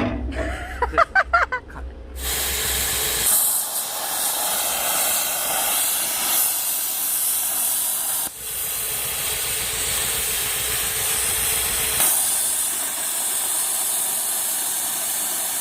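Electric arc welding on a stainless-steel boiler water tank: the arc's steady hiss starts about two seconds in and carries on, breaking off for an instant about eight seconds in as the arc is briefly lost.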